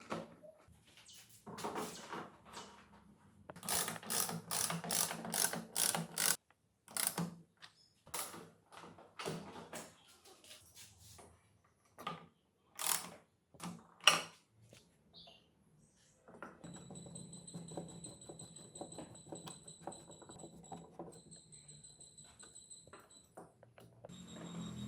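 Mechanical workshop sounds of tools on metal: quick runs of rapid clicking and several sharp knocks, then a steady high-pitched whine over a low hum in the last third.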